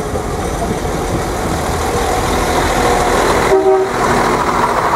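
Irish Rail 22000 class diesel multiple unit passing close by: a loud, steady rumble and rush of wheels on rails and running gear, building slowly. About three and a half seconds in there is a short tonal sound.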